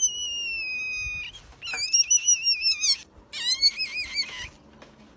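A high-pitched, whistle-like animal call: one long note falling slightly in pitch, then two warbling trills.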